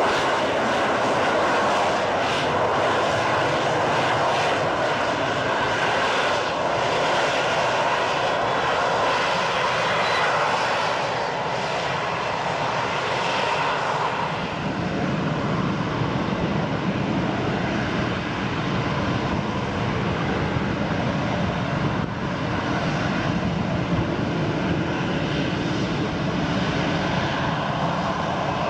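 Loud, continuous jet aircraft engine noise, at first from an F-22 Raptor's twin turbofans during a high-angle display manoeuvre. About fourteen seconds in, the sound changes and turns lower and duller.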